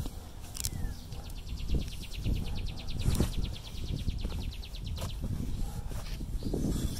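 A bird's high trill, a fast run of evenly repeated notes at about ten a second, lasting some four seconds, over a low rumble with a few soft knocks.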